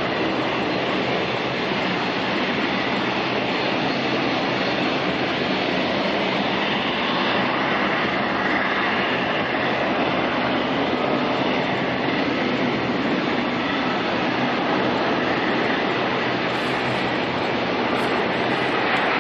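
Steady roar of jet airliner engines running, with a faint high whine held over it.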